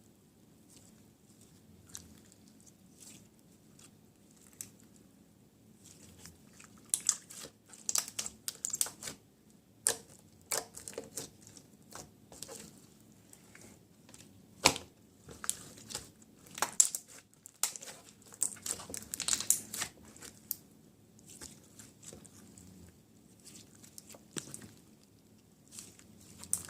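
Hands handling the contents of a slime random box: irregular crinkling and tearing sounds with a few sharp clicks. The sounds begin about six seconds in after a quiet stretch.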